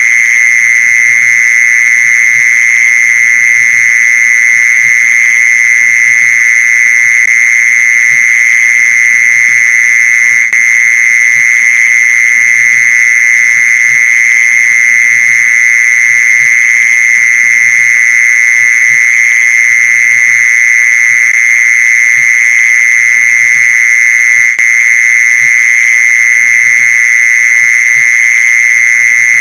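Mole cricket song: one continuous high trill held at a steady pitch, without a break.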